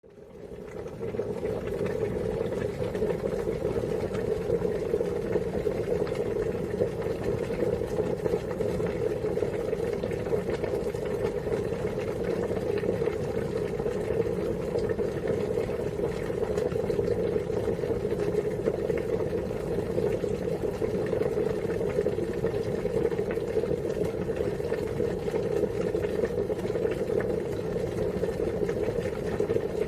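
Water boiling steadily, a continuous bubbling rumble that fades in over the first second or so and then holds level.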